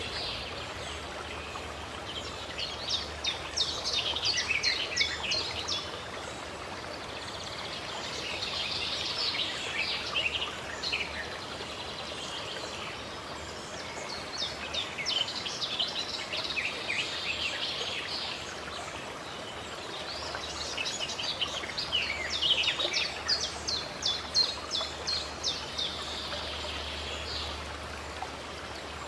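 Songbirds singing in several bursts of rapid, high chirping notes over a steady flow of running water.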